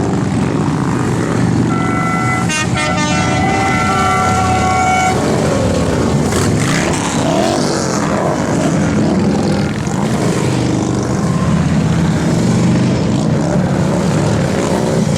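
Motorcycle engines running in a group ride, a steady low drone with some rising and falling revs. About two seconds in, a vehicle horn honks several short toots for a few seconds.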